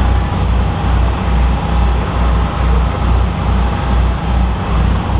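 Motorboat underway: steady engine and water noise, with a low, regular pulsing about twice a second.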